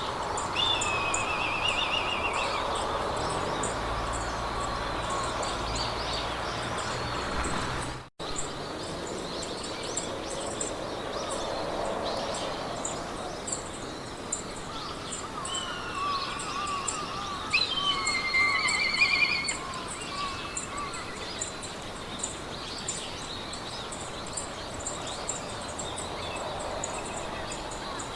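Mountain-meadow ambience: wind through grass as a steady hiss, with birdsong. Trilling bird calls come near the start and again about two-thirds of the way through, over a fast, steady, high chirping. The sound cuts out for a moment about eight seconds in.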